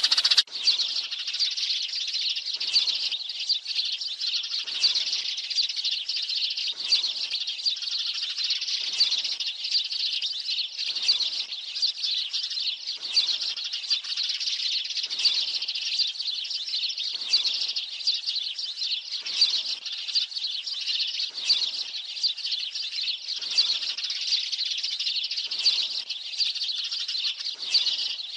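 A flock of sparrows chirping without a break, a dense chatter of many birds, with a stronger call standing out about every two seconds. It is a sparrow flock-call lure of the kind played to draw sparrows in for trapping.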